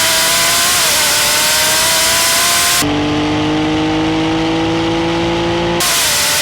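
Sports car engine accelerating flat out, its pitch climbing steadily and dipping briefly at gear changes about a second in and again near the end, under heavy wind and road hiss. For a few seconds in the middle the sound switches abruptly to a cleaner, steadily rising engine tone without the hiss.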